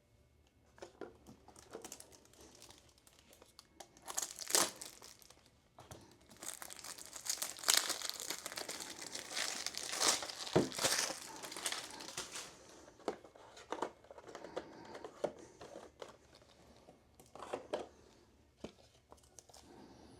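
Plastic packaging crinkling and tearing in irregular bursts as a trading-card pack is opened and the cards handled. The longest and loudest stretch of rustling comes in the middle, with shorter crinkles before and after.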